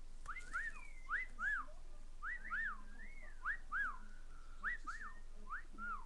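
Cockatiel whistling a repeated phrase of short rising-and-falling notes, mostly in quick pairs about once a second.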